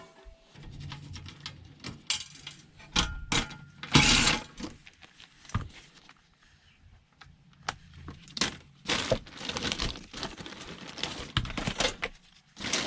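Irregular knocks, clicks and rattles of tools and metal parts as a coffee machine is dismantled by hand, with the loudest knocks about three and four seconds in and a busier run of clicks later on.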